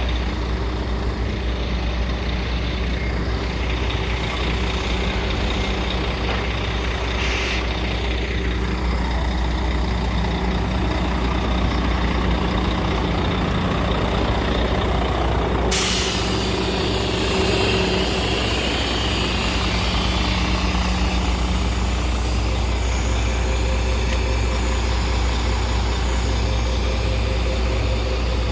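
Heavy truck's diesel engine running steadily. A brief air hiss comes about seven seconds in, and a louder hiss starts suddenly about halfway through and keeps going.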